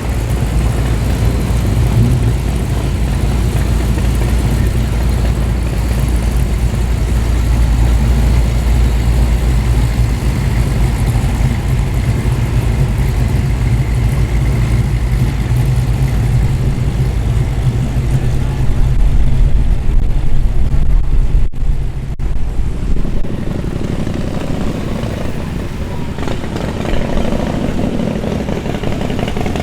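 A car engine running with a deep, loud low drone, at its loudest about two-thirds of the way through, then breaking off at about 22 seconds and giving way to quieter engine sound.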